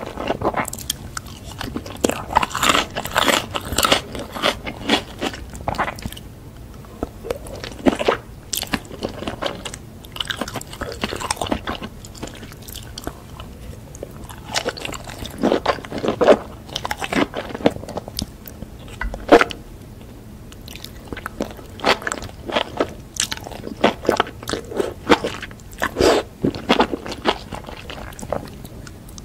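Close-miked eating of mushrooms in spicy sauce: irregular bites and chewing, with many sharp, wet mouth clicks, easing off briefly twice.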